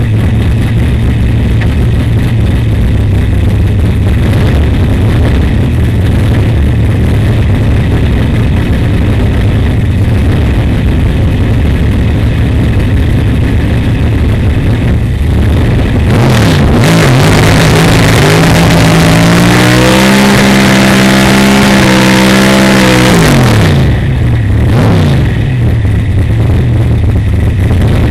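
On-board sound of a Pro Stock drag car's V8 engine. It runs at a steady low rumble, then about two-thirds of the way in it goes suddenly to full throttle: a loud blast with the engine note climbing for a few seconds and holding for a full pass of about seven seconds. The throttle then closes and the engine drops back to a low rumble.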